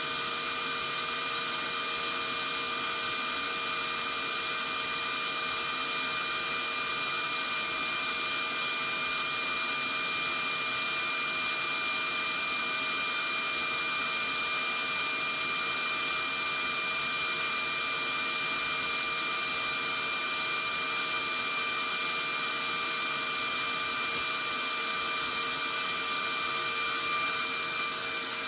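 Vacuum cleaner running steadily: an even rush of air with a constant high motor whine.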